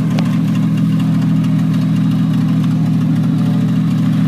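Off-road race truck's engine idling steadily, with no revving.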